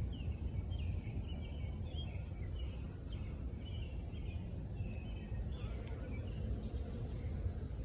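Small birds chirping in quick short notes, thinning out after about five seconds, over a steady low outdoor rumble.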